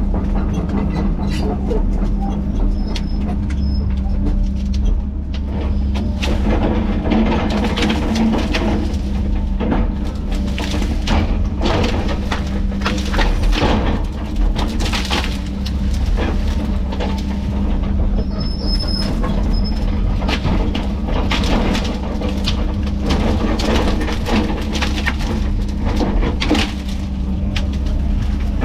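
Heavy diesel land-clearing machinery running steadily under load, with irregular cracking and clattering of wood and metal throughout.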